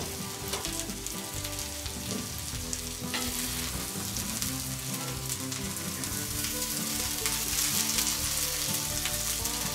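Vegetable rice frying and sizzling steadily in a grill pan on the grill, stirred now and then with a wooden spoon.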